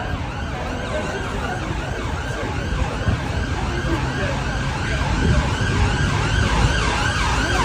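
Emergency vehicle siren sweeping quickly up and down in pitch, about two to three sweeps a second, growing louder toward the end as it approaches, over the rumble of traffic.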